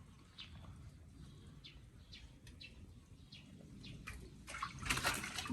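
Faint, short bird chirps here and there. Near the end comes a louder noisy rustle lasting about a second.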